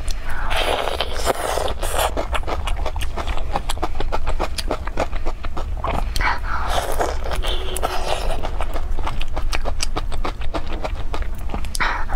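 Close-miked chewing and biting of napa cabbage kimchi: wet, smacking mouth sounds with rapid crunchy clicks, and louder bursts of slurping a little way in and again past the middle.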